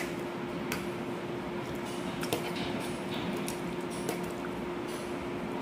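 A person chewing a mouthful of pasta: wet mouth and lip-smacking sounds with scattered small clicks, over a steady hum.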